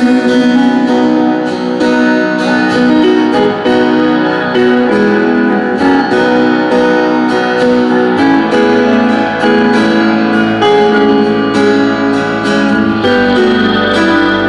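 Live band music without singing, led by strummed guitar holding chords, with low notes coming in about halfway through.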